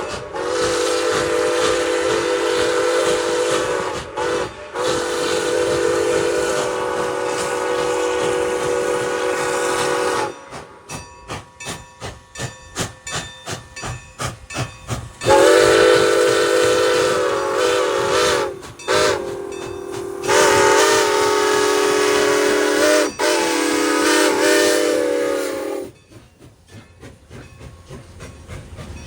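Diesel locomotive's multi-chime air horn sounding a chord in long blasts. Twice it goes quiet, for about five seconds in the middle and again near the end, and wheels can be heard clicking over the rail joints. In the second run of blasts a short one falls between two long ones.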